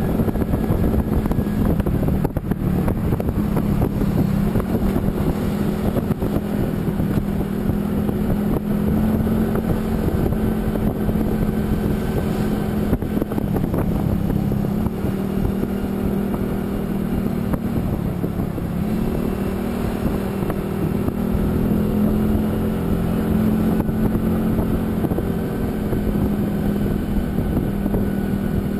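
Vehicle engine running steadily on the move, with wind noise on the microphone; the engine note drops and rises again about two-thirds of the way through.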